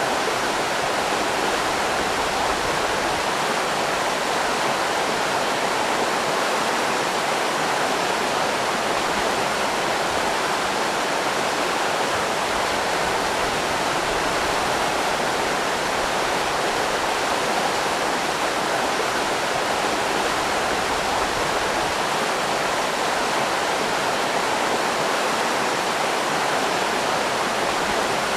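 River rapids rushing steadily, a continuous even wash of water noise.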